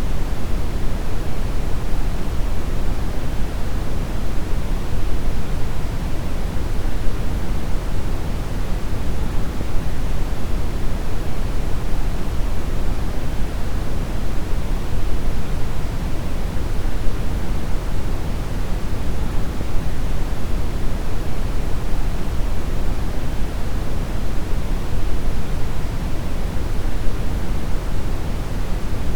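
Brown noise: a steady, unchanging rumbling hiss, weighted heavily toward the bass.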